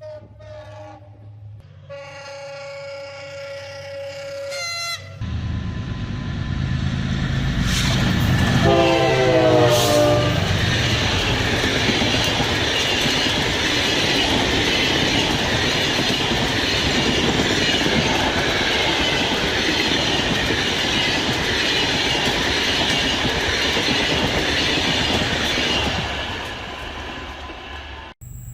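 A diesel-hauled passenger train passes close by: a loud, steady rumble and rattle of wheels and coaches that swells in about five seconds in, holds for some twenty seconds, then fades. A horn blast dropping in pitch sounds a few seconds after the train arrives.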